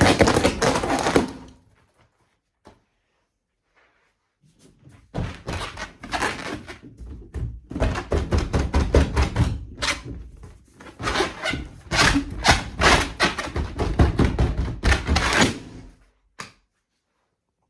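Inflated rubber balloon being handled, with rapid runs of thumps and taps on it by hand: a short run at the start, a pause of a few seconds, then a long run of quick strokes that stops shortly before the end.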